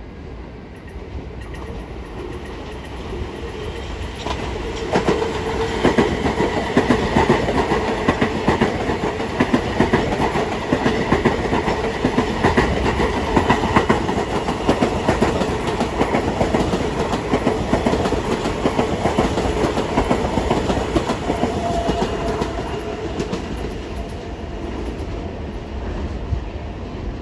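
A Long Island Rail Road train passing by, its wheels clicking over the rail joints. The sound swells about four seconds in, stays loud for most of the time, and dies away near the end.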